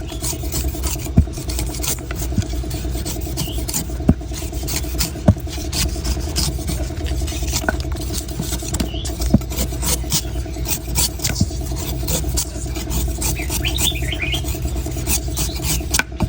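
A steady engine hum runs throughout, with a low rumble. Sharp knocks stand out above it every second or two, fitting knife blows into coconuts.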